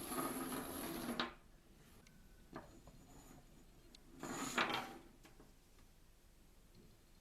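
Two short bursts of rubbing, scraping handling noise, each about a second long or less, with a faint click between them.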